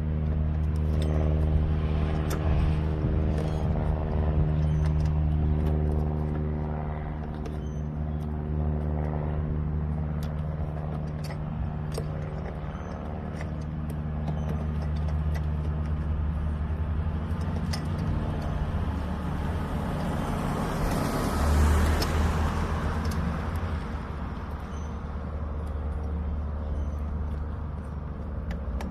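A vehicle engine running steadily with a low hum that fades after about 18 seconds, then a louder whoosh of a passing vehicle about 21 seconds in. Scattered small clicks throughout.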